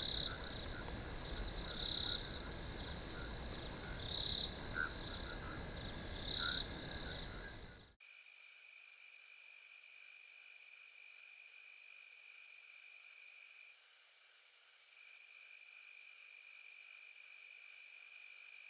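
Crickets trilling steadily, with a second call pulsing about every two seconds over a low rumble. About eight seconds in, the sound drops out and cuts to a different, higher-pitched cricket chorus.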